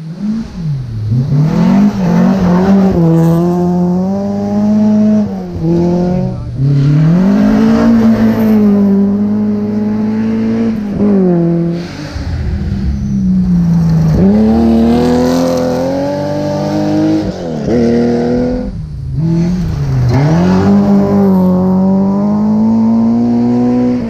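Rally car engine heard from inside the car at full attack. It revs up hard again and again, and the pitch drops sharply at each gear change or lift off the throttle, several times over.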